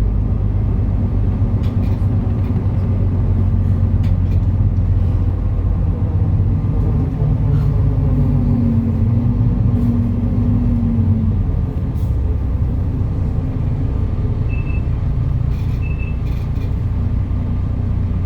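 MAN A37 Lion's City NL293 city bus's diesel engine running under way, a steady low drone with a whine that rises and falls in the middle, then easing off about two-thirds of the way in, with scattered short rattles and clicks.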